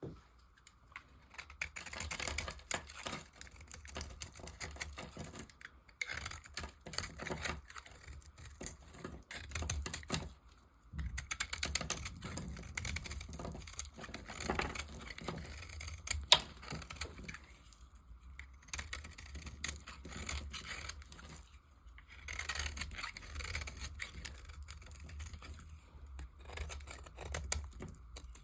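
A blade cutting through dry, hardened soap, giving a dense crisp crackling and clicking in stretches of a few seconds with short pauses between, and one sharp louder crack about two-thirds of the way through.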